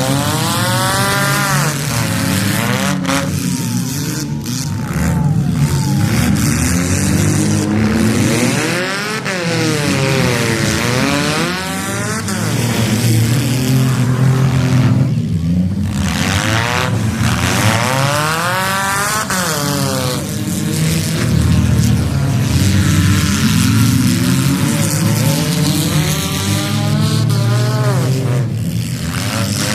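Several stock-class demolition derby cars running at once, engines revving hard, their pitch sweeping up and falling back again and again as the heat gets under way.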